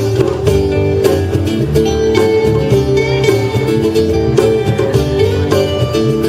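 Live band playing an instrumental passage with guitar, bass and drums, a steady beat and no singing.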